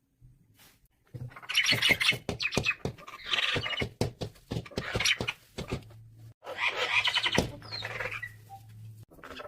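Small birds chirping and chattering in rapid bursts, several times over, with a low steady hum underneath in the second half.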